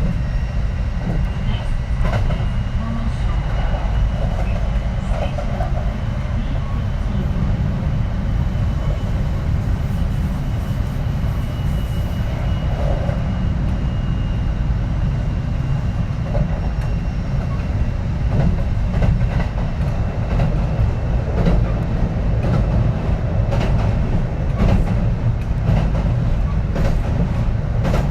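Kintetsu 3220 series electric train running along the line, heard from inside the car: a steady low rumble of wheels on rail with a faint steady whine. Scattered clicks of wheels over rail joints come more often in the second half.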